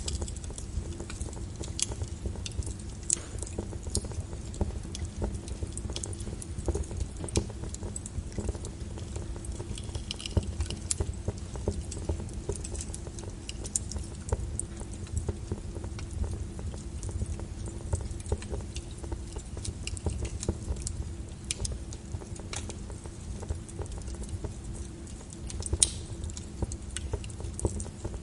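Wood fire in a fireplace crackling, with irregular sharp pops over a steady low rumble; one pop near the end is louder.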